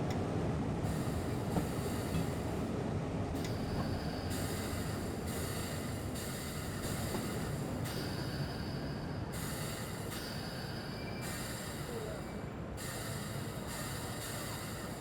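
A train running, heard from inside the driver's cab: a steady low rumble, with high-pitched wheel squeal and hiss that come and go every second or so.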